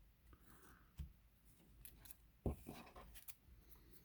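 Faint handling noises of trading cards and their packaging: light clicks and short rustles, with a soft knock about two and a half seconds in.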